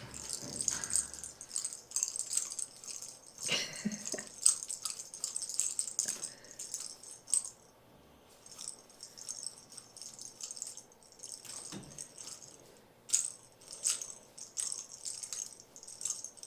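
Bell inside a toy ball jingling in repeated bursts as the ball is handled and moved about, with a few short knocks.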